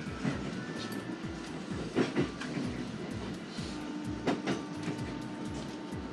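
Inside an SR1 series electric train running along the line: a steady rumble with pairs of wheel clacks over rail joints about every two seconds, and a faint steady motor hum that comes in about halfway through.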